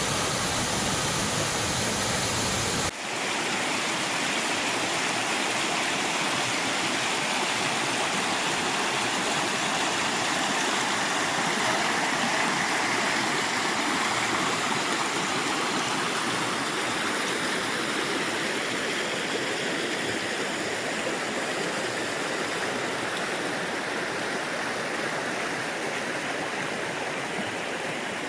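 Steady rush of a waterfall. About three seconds in the sound changes abruptly to a thinner rush with less low rumble.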